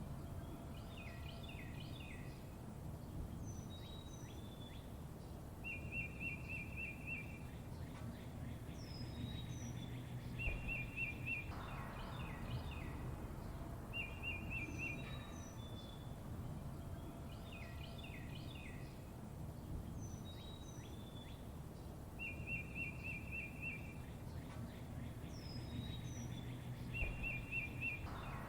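Small songbirds chirping, with short high notes, quick downward-sliding calls and a rapid trill of repeated notes. The sequence of calls repeats about every 16 seconds, over a steady low background rumble.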